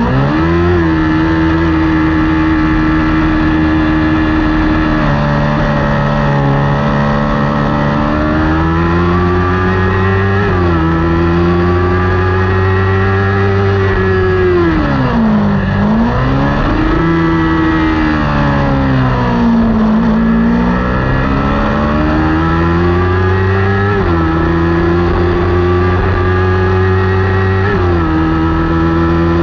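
Kawasaki Ninja 400 parallel-twin engine run hard at racing revs, heard onboard. The pitch shifts in sudden steps several times, and twice in the middle it falls steeply and climbs back.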